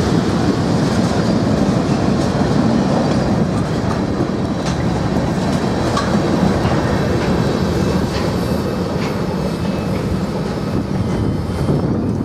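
Norfolk Southern freight train rolling past, its cars rumbling steadily with wheel clicks over the rail joints.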